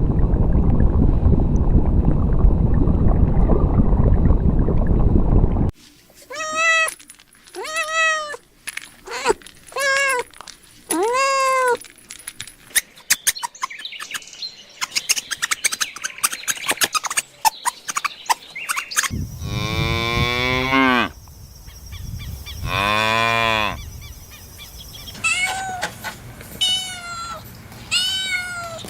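A string of animal calls: a loud low rumbling noise for the first six seconds, then a run of short high calls that rise and fall. About twenty seconds in comes a cow mooing, two long moos, followed near the end by more short high calls.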